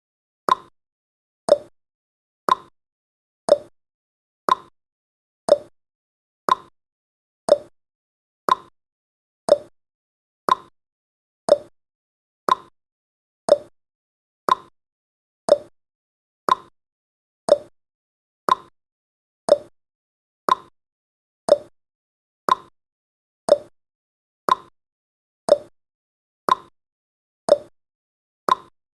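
Clock tick-tock sound effect of a countdown timer: one short tick each second, alternating between a higher and a lower pitch.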